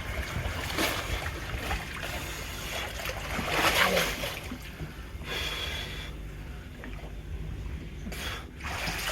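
Sea water splashing and lapping as a swimmer moves through it beside a catamaran's hull, with a louder splash about three and a half seconds in, over a low steady hum.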